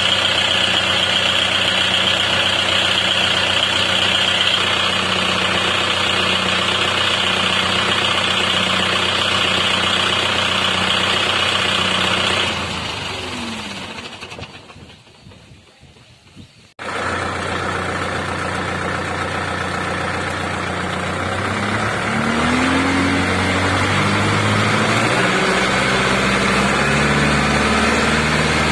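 Tractor diesel engine idling steadily, then shut off about twelve seconds in and winding down to quiet. A few seconds later a tractor engine is abruptly heard running again, and its speed rises and falls several times.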